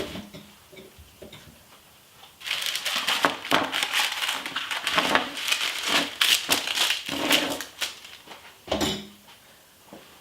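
Wrapping being handled on a kitchen counter, crinkling and rustling in dense bursts. It starts a couple of seconds in and runs for about six seconds, with one more short rustle near the end.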